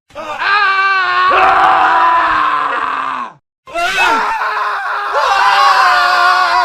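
Men screaming. One long scream with a wavering pitch cuts off a little after three seconds in, and after a brief silence several male screams overlap.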